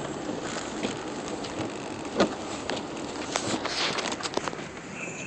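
Car running along a snow-covered road, heard inside the cabin: a steady rush of road and engine noise with scattered clicks and knocks, the loudest about two seconds in.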